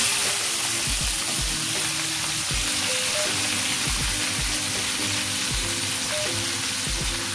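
Cut potato and capsicum pieces tipped into hot oil seasoned with mustard seeds and cumin in a kadai, setting off a loud, steady frying sizzle that starts suddenly as they hit the oil.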